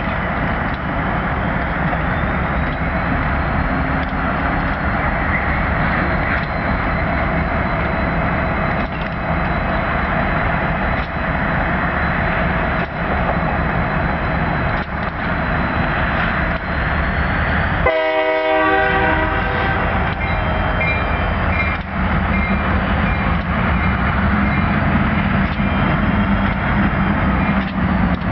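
Diesel locomotive running close by during yard switching, a steady loud engine rumble. About two-thirds of the way through, the locomotive's horn sounds once, briefly.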